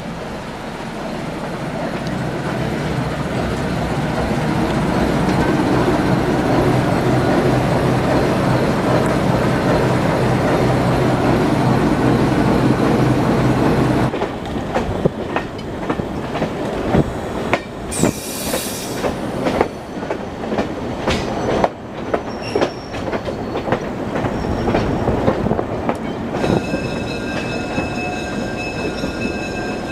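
A train running on rails. First comes a steady, growing rumble with a low hum. About halfway through it changes to rail joints clicking and clacking, with a brief high squeal, and near the end the wheels squeal with several high, steady tones.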